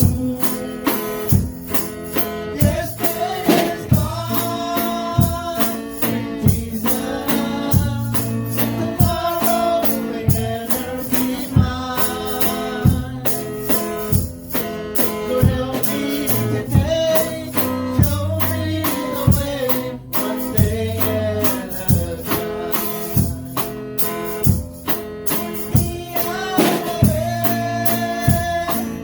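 Worship music: singing over a band with guitar and a steady beat.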